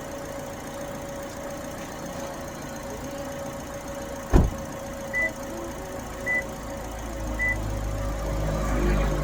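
Car sounds: a sharp click, then three short high beeps about a second apart, then a low engine rumble that builds near the end.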